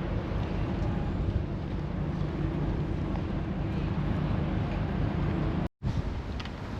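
Steady low rumble of wind buffeting the microphone outdoors. It cuts out for a split second about a second before the end, then resumes a little quieter.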